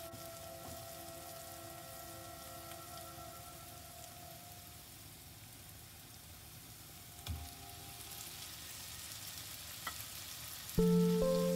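Chopped tomatoes and onions sizzling faintly in a frying pan while a wooden spatula stirs them, with one knock of the spatula on the pan about seven seconds in. Soft sustained background music fades out early on, and louder music notes come in near the end.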